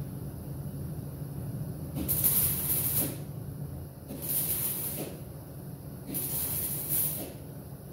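Welding a sheet-metal patch panel into a Jeep body, in three short hissing bursts of about a second each, over a steady low hum.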